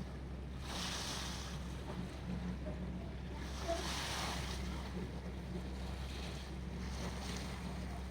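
Harbour seawater waves washing and splashing in three surges about three seconds apart, over a steady low rumble.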